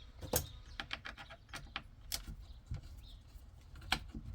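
Irregular light clicks and knocks of hands and small tools working on a steering wheel's plastic parts, with the two loudest knocks about half a second in and near the end.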